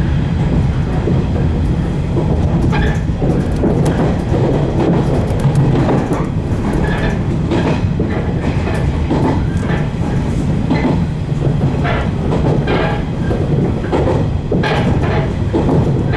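A 115-series electric train running along the line, heard from inside the leading car. A steady low running hum carries throughout, and the wheels click over rail joints at uneven intervals.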